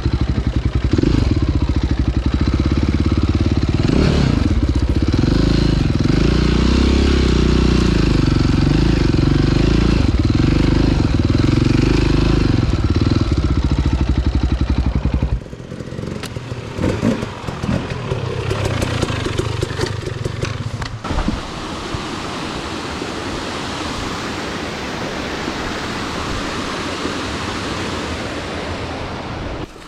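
Close-up dirt bike single-cylinder engine running under load, the revs rising and falling as it is ridden; about halfway through the engine sound cuts off suddenly, leaving a quieter steady hiss with a few knocks.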